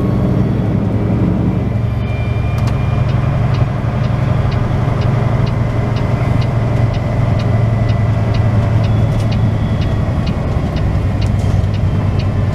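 Semi truck's diesel engine running steadily under way, heard from inside the cab as a low hum. A light, regular ticking about twice a second runs through the middle part.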